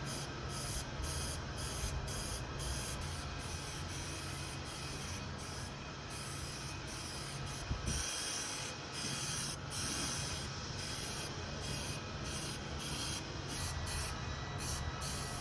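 Aerosol spray paint can hissing in a run of short sprays with brief breaks between them, over a steady low hum.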